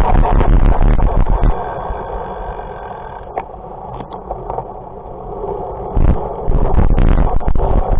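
A vehicle engine running loudly with heavy noise. It eases off for several seconds in the middle, then comes back loud near the end.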